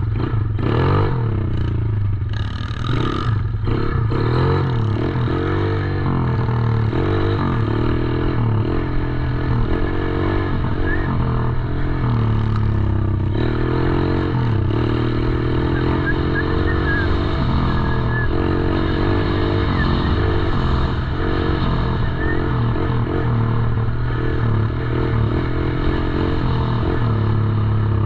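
110cc dirt bike engine running and revving up and down continuously as the bike is ridden.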